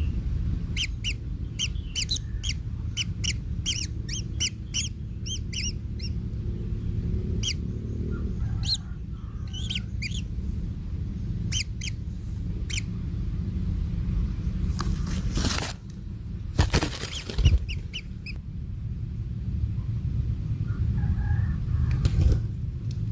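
Kingfisher nestlings chirping: a rapid run of short, high calls, several a second, then scattered single chirps. About two-thirds of the way through come two loud, brief rustling bursts, over a steady low rumble.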